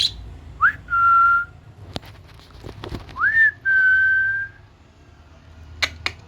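A person whistling two short phrases, each a quick upward slide into a steady held note, the second held longer. A few sharp clicks follow near the end.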